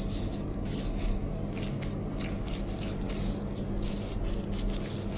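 Hand-work sounds of food preparation: irregular light rustling, taps and scrapes, over a steady low machine hum.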